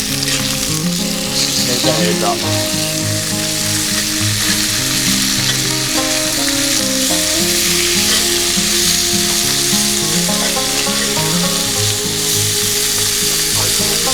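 Food frying, a steady sizzle, with background music playing over it.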